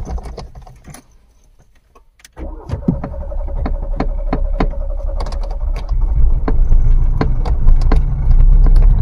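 Old VW Polo being restarted after stalling: a few seconds of quiet with light clicks, then the starter cranks with a steady whine for about three seconds. The engine catches and runs, growing louder toward the end.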